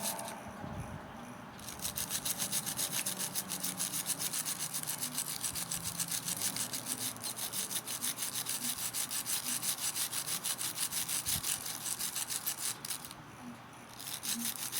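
Small wire brush scrubbed rapidly back and forth on a brass contact, scuffing its shiny surface so that solder will take. The strokes come about four or five a second, with a brief pause near the start and another near the end.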